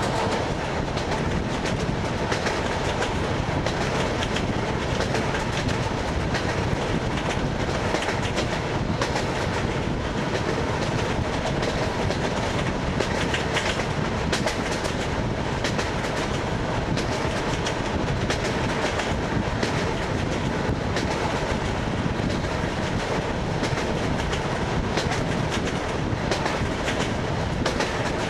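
ED9MK electric multiple unit rolling at speed, its wheels clattering over the joints of jointed rail above a steady rolling rumble, heard from inside the carriage.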